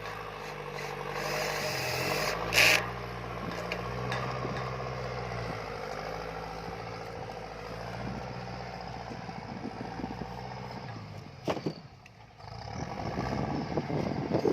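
Kubota L4708 tractor's four-cylinder diesel engine working under load while pushing dirt, its pitch rising and falling. A short sharp clatter about two and a half seconds in, and the engine note drops briefly near the end before picking up again.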